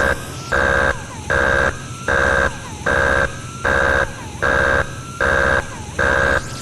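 Electronic alarm sounding in steady repeated beeps, a little more than one a second, each about half a second long, with a shrill upper tone over a lower one.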